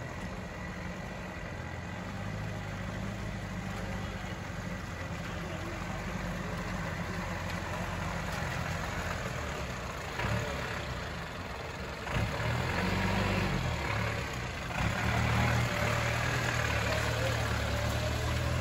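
Land Rover 4x4 engine running as it drives an off-road trail. It grows louder and busier about twelve seconds in and again about fifteen seconds in, as the engine works harder.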